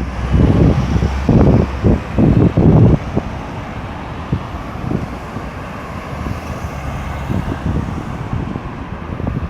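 Road traffic around a busy roundabout: cars running past, with louder surges over the first three seconds, then a steady traffic rumble.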